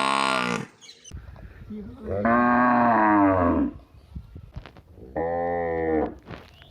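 Domestic bovine mooing three times: a long call trailing off in the first second, a second call about two seconds in that bends down in pitch near its end, and a shorter steady call about five seconds in.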